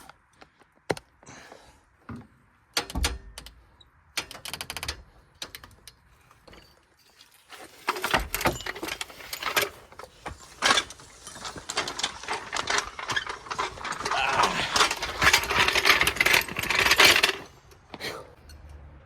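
Wrench working lug nuts off a wheel: a few separate metallic clanks, then about ten seconds of fast, loud mechanical rattling that stops abruptly near the end.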